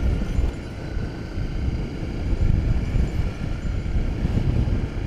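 Wind buffeting the microphone over the steady running of a Honda CRF250 Rally's single-cylinder engine while riding.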